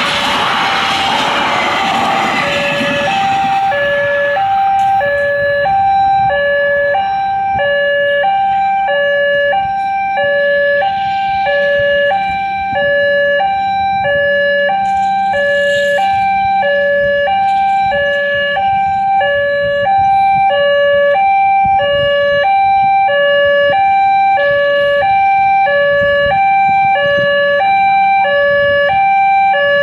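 Railway level-crossing warning alarm sounding, the signal that a train is approaching: an electronic two-tone alarm alternating steadily between a higher and a lower tone. It starts a few seconds in, as a broad rush of noise fades away.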